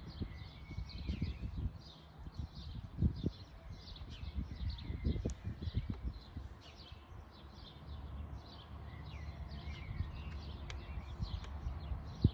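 Birds singing outdoors: many short high chirps repeating throughout, over a low rumble with a few bumps.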